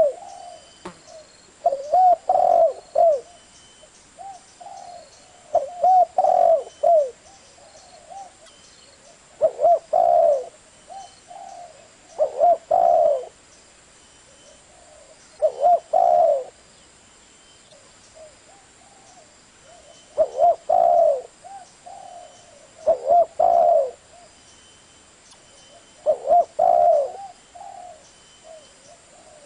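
A spotted dove cooing: a short phrase of several coos, repeated roughly every three to four seconds.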